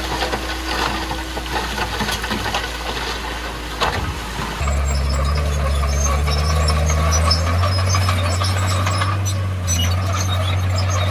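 Crawler bulldozer's diesel engine running, then speeding up in two steps, about four and a half seconds in and again near eight seconds, as it takes on load. Squeals and clanks from the steel tracks and undercarriage come in once it speeds up.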